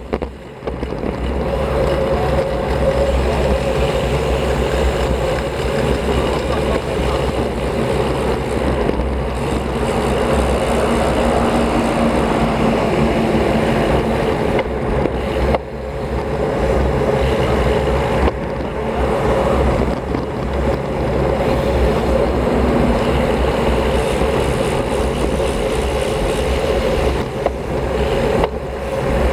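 Wind rushing over the microphone of a camera on a moving road bike, a steady low rumble mixed with tyre and road noise.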